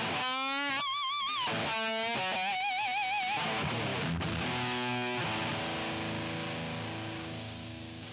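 Electric guitar through a CoolMusic Insane Distortion pedal, playing a distorted lead line with bent notes and wide vibrato, then striking a chord that is held and slowly fades out near the end.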